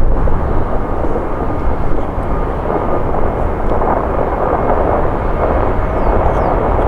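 Jet airliner's engines roaring at takeoff power as it rolls down or climbs from the runway: a loud, steady rumble.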